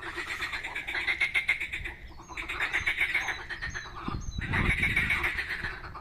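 Chorus of frogs calling: rapid pulsed croaking trills in bouts of about two seconds with short pauses between, and a low rumble in the second half.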